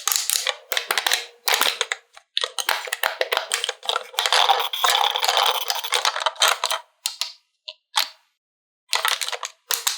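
Hard plastic toy pieces and packaging being handled, clicking, clattering and crinkling in bursts with short pauses.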